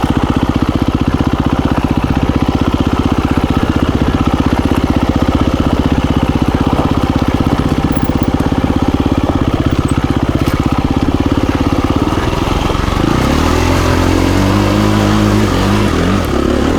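KTM 350 EXC-F single-cylinder four-stroke dirt bike engine running under way, pulsing evenly at low revs. From about twelve seconds in, the revs rise and fall as the throttle is worked.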